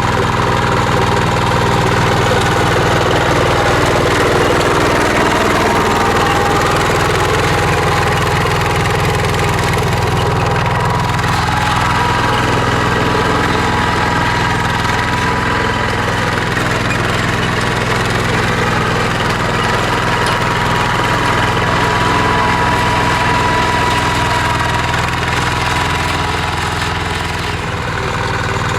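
Small tractor engine running steadily while plowing, with a steady whine riding over the engine note.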